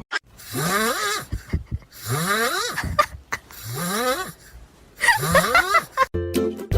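An animal giving four raspy, drawn-out calls with short gaps between them, each rising in pitch. Plucked music comes in near the end.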